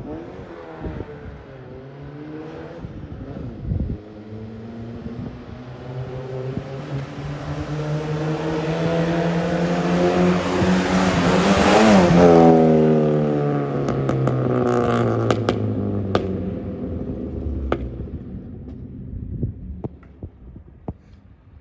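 VW Golf with a custom stainless-steel exhaust accelerating, the exhaust note rising steadily in pitch and loudness for about twelve seconds. It then lifts off and the pitch falls, with a run of sharp exhaust pops on the overrun.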